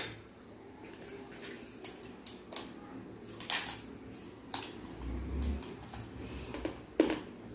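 Eating sounds at the table: scattered short clicks and crunches of chewing crispy fried pork skin, with a few light taps of cutlery, the sharpest about three and a half seconds in and again near the end.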